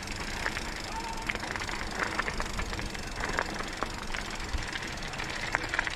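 Mountain bike rolling over a dirt and gravel trail: tyre crunch with many scattered clicks and rattles from the bike.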